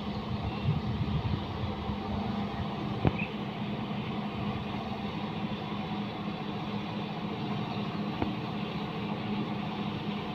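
John Deere 5210 4x4 tractor's diesel engine running steadily, with two sharp clicks, about three seconds and eight seconds in.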